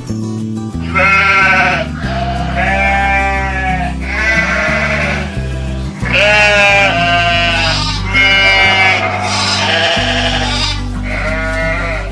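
Sheep bleating over and over, a string of about seven wavering calls of roughly a second each, over background music with sustained low notes.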